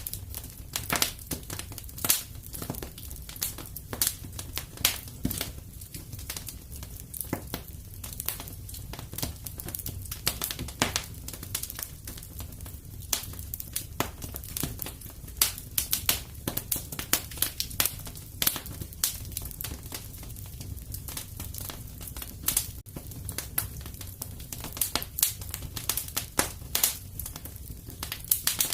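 Fire crackling in a fireplace: irregular sharp pops and snaps over a low steady rumble.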